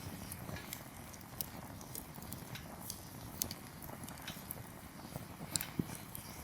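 Wood campfire burning: the firewood crackles with irregular sharp pops over a steady low rush, with a few louder pops near the end.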